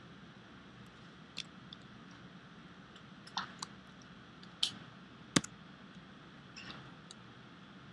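Irregular clicks of a computer mouse, about eight of them, the loudest a little past halfway, over a faint steady room hiss.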